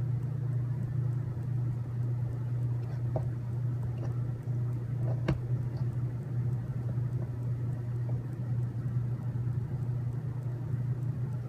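Steady low hum of background machinery, with a few faint clicks from small parts being handled, the sharpest about five seconds in.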